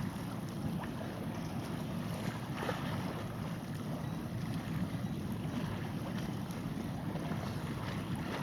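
Wind buffeting the microphone as a steady low rumbling rush.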